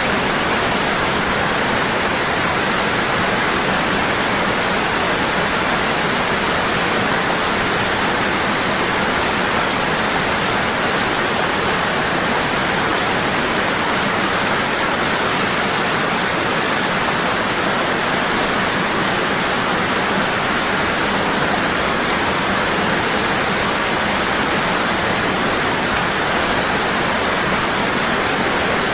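Waterfall pouring strong and steady: an even, unbroken rush of falling water.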